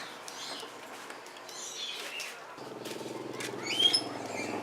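Birds chirping in short, rising calls. About two and a half seconds in, a low, steady engine drone starts up and continues.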